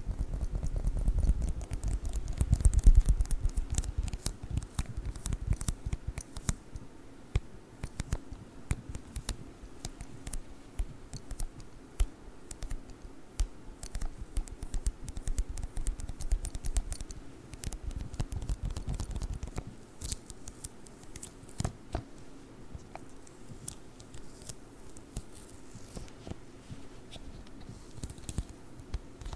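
Sticky lint roller tape crackling and clicking close to the microphone as it is rolled and pressed, in dense rapid clicks. A low rumble runs under it in the first few seconds and again past the middle, and the clicks thin out near the end.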